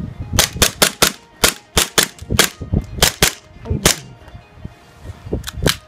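KWA ATP gas blowback airsoft pistol firing semi-auto: about a dozen quick sharp shots in a rapid string, then a pause and two more shots near the end. The pistol is running on a home repair of its broken hammer part, with some clunkage.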